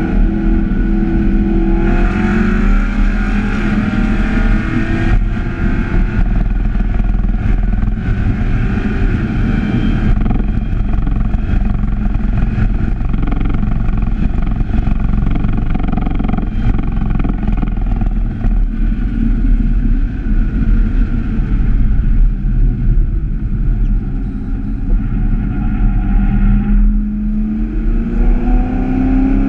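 Chevrolet Camaro ZL1's supercharged 6.2-litre V8 heard from inside the cabin while lapping a circuit at speed, mixed with heavy wind and road noise. Near the end the engine note rises steadily as the car accelerates.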